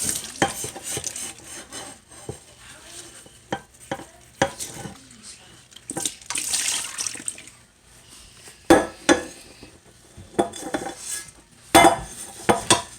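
Kitchen clatter while cooking: utensils clinking and knocking against bowls and pans, with a short stretch of scraping or stirring about six seconds in.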